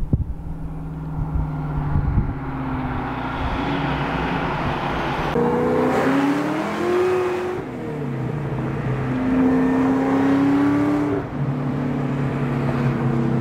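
Supercharged 4.6 L V8 of a 2003 Mustang SVT Cobra. It is first heard from outside as the car drives up, then from inside the cabin as it pulls hard, the engine note climbing and dropping twice at gear changes.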